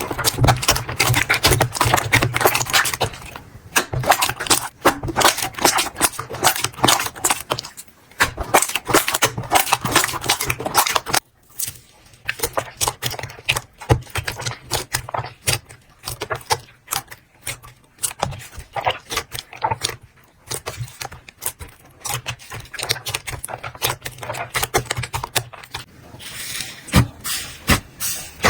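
Slime being squeezed and worked by hand, a dense run of small clicks and pops with a few short pauses.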